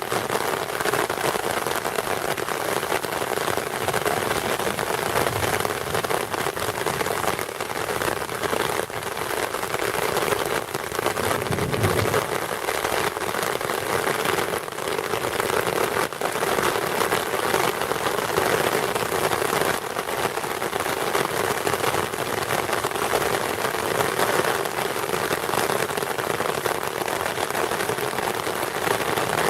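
Heavy rain pouring steadily, a dense hiss of drops pattering on surfaces, with a short low rumble about twelve seconds in.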